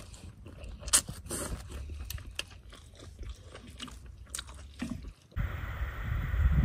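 A person chewing a mouthful of noodles, with irregular small wet mouth clicks. About five seconds in it changes abruptly to a steady low rumbling noise.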